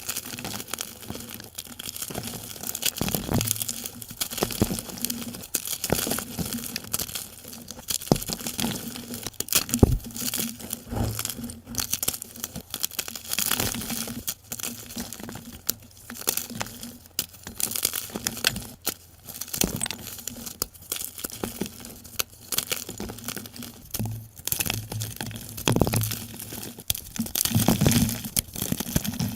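Gym chalk blocks being crushed and crumbled, a dense, irregular run of crunching and crackling, played back sped up.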